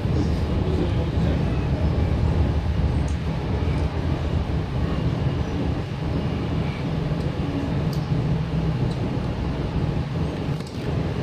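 Cabin noise of a Sydney Trains Tangara electric suburban train car under way: a steady low rumble of the wheels running on the rails.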